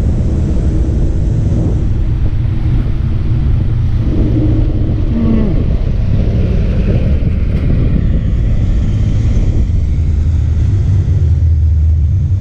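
Steady low rumble of a slow-moving car's engine and road noise.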